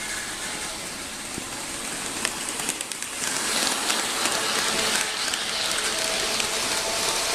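HO scale model train running past on its track: a steady rolling hiss from the wheels and motors with scattered clicks over the rail joints. It gets louder about three seconds in as the train comes by.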